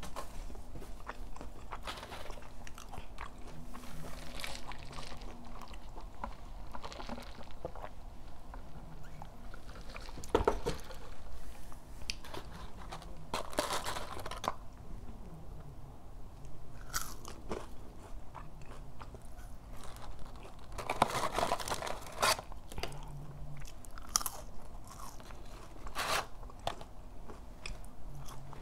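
Close-up eating sounds: irregular crunching bites and chewing of McDonald's chicken nuggets and french fries. Partway through, a cardboard fries carton is handled and folded.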